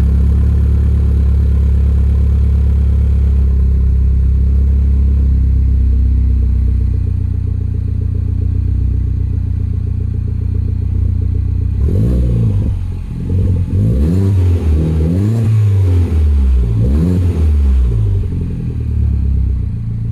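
Mini Cooper R56's four-cylinder engine running through a Gravity 3-inch exhaust just after a cold start. It idles steadily, with the idle dropping a little about a third of the way in, then is revved about four times in quick blips over the last several seconds.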